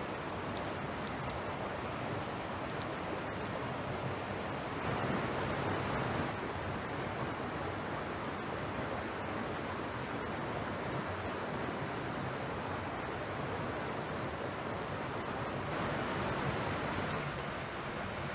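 Mountain stream rushing over rocks, a steady even rush of water that swells slightly twice.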